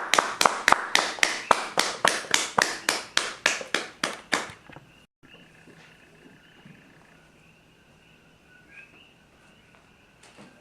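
Clapping of a small audience, about four even claps a second, dying away after about four and a half seconds. After a sudden cut, only faint background with a steady high tone remains.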